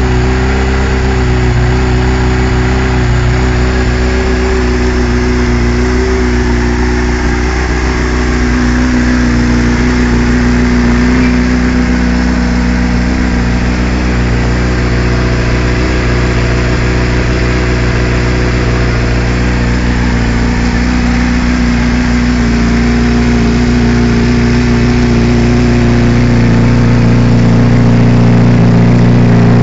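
2007 Honda CBR600RR's inline-four engine idling steadily through a freshly fitted Devil aftermarket exhaust, growing slightly louder near the end.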